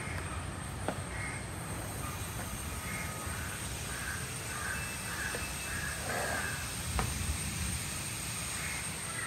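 Birds calling: a quick run of short, evenly spaced calls about three to five seconds in, with a few single calls before and after, over a steady thin high whine.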